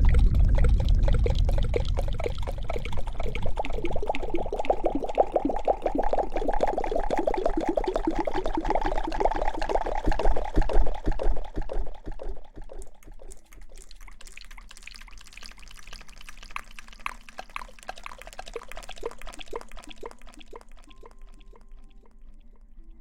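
Hair being washed: water pouring and splashing with dense wet crackling. It is loudest for the first dozen seconds, then drops to a quieter crackle.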